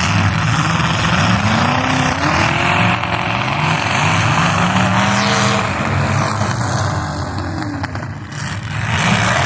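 Full-size demolition derby cars' engines revving up and down, more than one at once, over a steady rushing noise; the sound dips briefly about eight seconds in.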